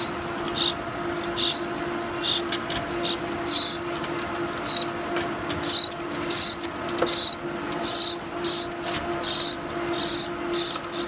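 A baby bird trapped inside a wall, giving short, high chirps over and over. The chirps come about once a second at first and then faster and louder about halfway through. A steady low hum runs underneath.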